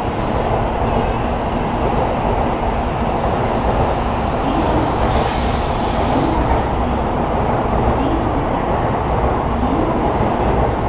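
N700-series Shinkansen train moving past along the platform, the cars giving a steady rumble and rush of noise, with a brief swell of hiss about five seconds in.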